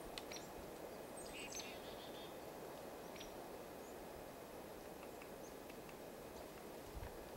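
Faint outdoor ambience with one short, high bird call about a second in, gliding down in pitch, and a few small clicks.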